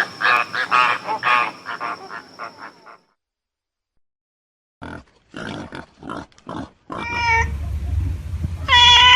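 Animal calls spliced from separate clips. A fast run of short pitched calls is followed by a sudden cut to silence about three seconds in. After that come a few short bursts and then a long pitched call near the end, with a low rumble underneath.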